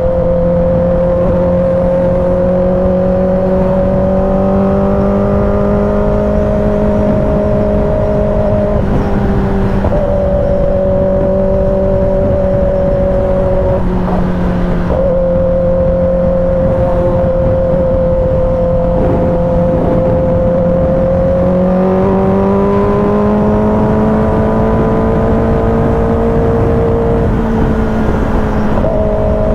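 Kawasaki ZX-10R sport bike's inline-four engine running at steady revs, its pitch shifting up and down a little several times as the throttle changes.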